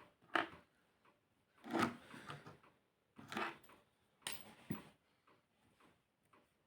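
Short, scratchy strokes of colouring on paper, about four strokes with pauses between them.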